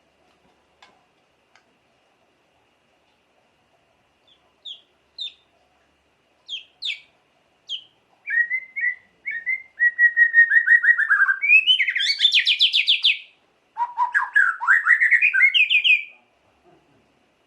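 White-rumped shama (murai batu) singing: a few short, sharp chirps, then from about eight seconds in a fast, rattling trill of rapidly repeated notes that falls in pitch and breaks into a louder, higher burst. After a brief pause comes another trilled phrase that rises in pitch.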